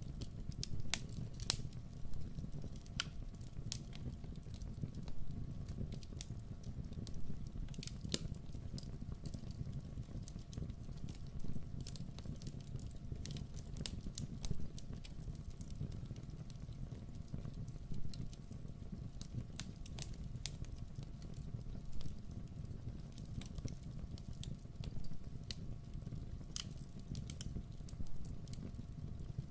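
Wood fire burning in a fireplace, crackling: irregular sharp pops and snaps over a steady low rumble.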